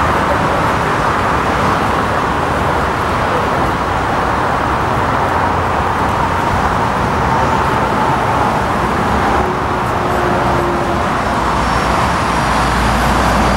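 Four CFM56 turbofan engines of a landing Airbus A340-300, a loud, steady jet roar that holds level.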